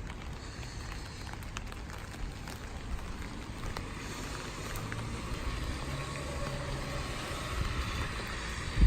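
Steady rain falling, with scattered drop ticks over a low rumble. A vehicle's engine hum builds in the second half. There is a brief thump right at the end.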